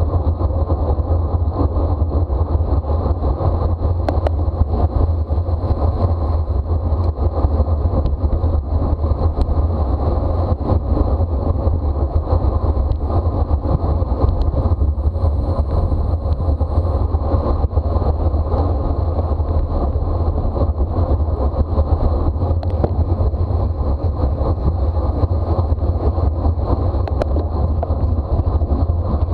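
Steady wind rush buffeting a bicycle-mounted camera's microphone at race speed: a constant heavy low rumble with a few faint clicks.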